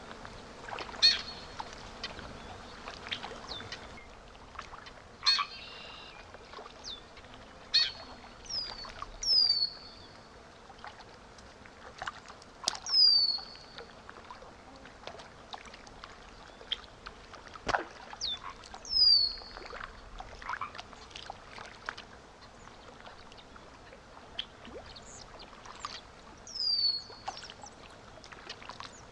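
Birds calling in a nature soundscape: a short, high whistled note sliding downward, repeated every few seconds, with other chirps around it. Frogs croak in the first few seconds, and faint flowing water runs underneath.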